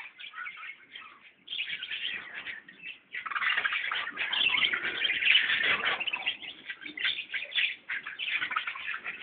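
A flock of birds chirping and twittering together in a dense, continuous chatter. It dips briefly about a second in and again near three seconds, then grows louder and busier.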